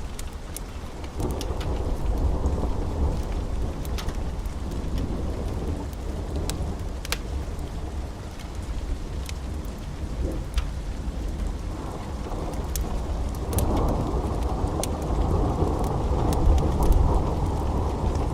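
Wood fire burning in a fireplace: a low, steady roar of flames that swells louder about two-thirds of the way in, with sharp crackles and pops scattered irregularly throughout.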